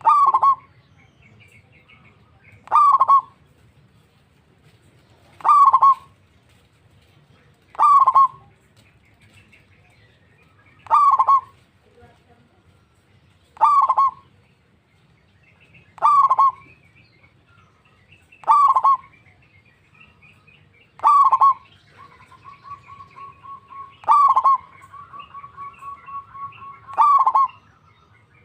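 Zebra dove (perkutut) calling: a short loud note with a slight downward slide, repeated about every two and a half to three seconds. Near the end comes a run of rapid staccato notes, with faint chirps of smaller birds between the calls.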